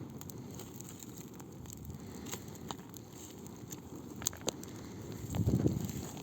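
Wood campfire crackling, with scattered sharp pops over a steady low rush of flame. The low rush swells louder for about a second near the end.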